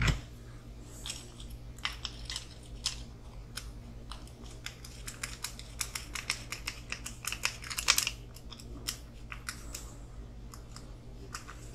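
Irregular light clicks and rattles of small plastic kit parts and hand tools being handled at a workbench, busiest and loudest a little past the middle, over a steady low hum.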